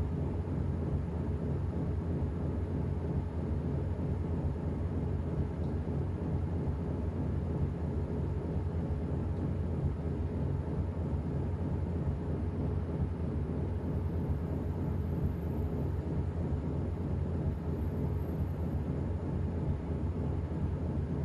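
Washing machine running, a steady low rumble from the drum and motor.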